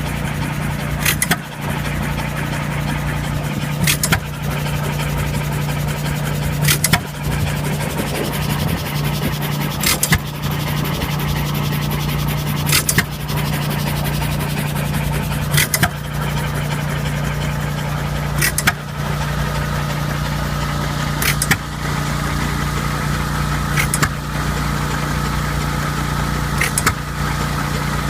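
Antique John Deere hit-and-miss gas engine running, firing with a sharp bang about every three seconds and coasting between firings. A steady low hum runs underneath.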